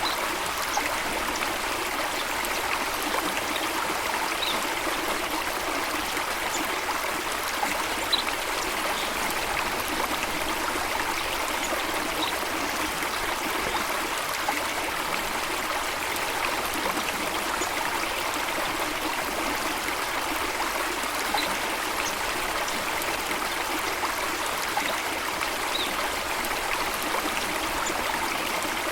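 Steady rushing and trickling of flowing water, a stream or small falls, with brief high plinks now and then.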